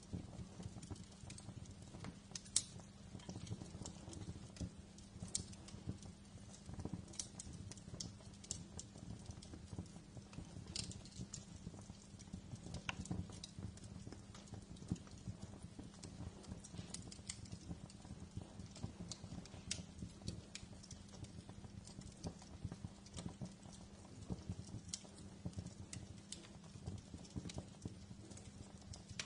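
Wood fire crackling, with irregular sharp pops and ticks over a steady low hum; the loudest pop comes about two and a half seconds in.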